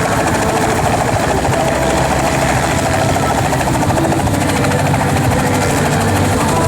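Helicopter engine and rotor running steadily and loudly, with a fast even pulsing from the blades.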